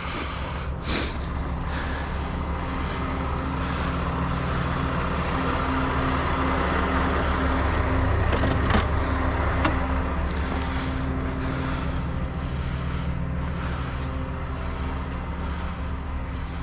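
Heavy truck diesel engine idling steadily, swelling slightly around the middle, with a few light clicks.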